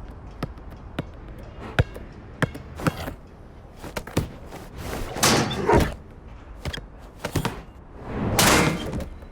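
A scattering of sharp knocks and thuds, with two louder rushing swells of noise, one about five seconds in and one about eight seconds in.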